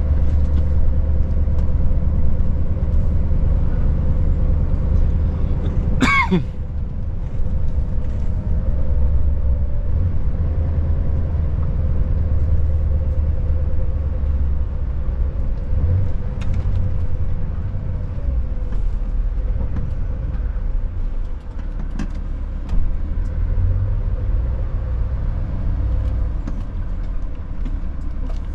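Scania S580 truck's V8 diesel engine running steadily under way, a low drone with road noise. About six seconds in, a brief whistle falls steeply in pitch.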